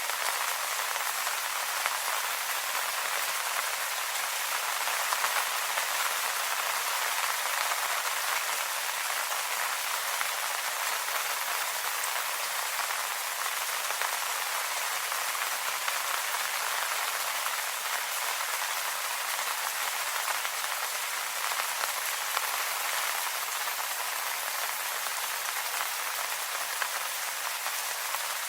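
Steady rain falling on leaves: an even patter of many small drops, with no lull or change.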